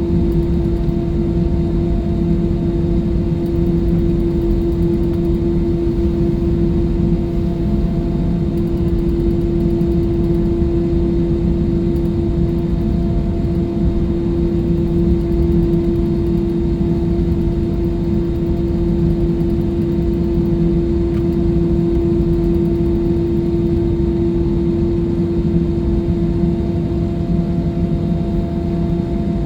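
Jet airliner engines heard inside the passenger cabin: a loud, steady rumble with a constant hum running through it.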